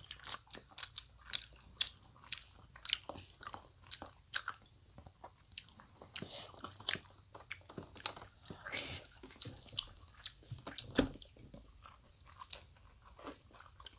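Close-miked chewing and biting of soft Korean fish cake (eomuk) on skewers, with irregular wet mouth clicks and smacks.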